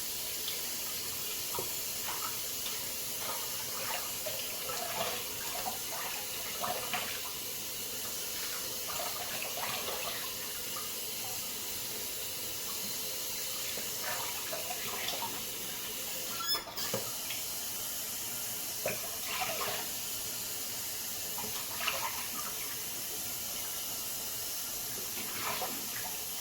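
Tap running steadily into a sink, broken by irregular splashes as a face is rinsed with handfuls of water after a shave.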